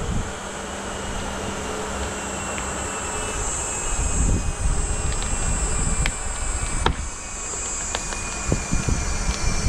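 Chainsaw running with a steady buzzing drone, with a few sharp clicks in the second half.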